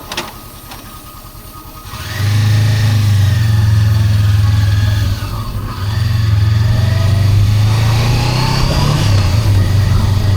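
Honda CB400X's parallel-twin engine, quiet at first, then pulling away about two seconds in and accelerating with rising pitch, with a short dip for a gear change midway before it climbs again.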